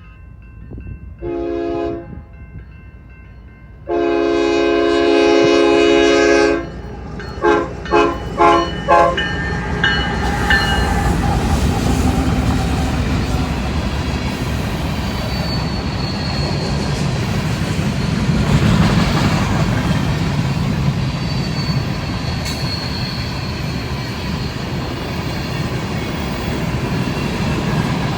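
BNSF coal train's locomotive air horn sounding a short blast, a long blast of about two and a half seconds, then four quick short blasts. After that the train passes: a steady loud rumble of the locomotive and the coal cars rolling over the rails.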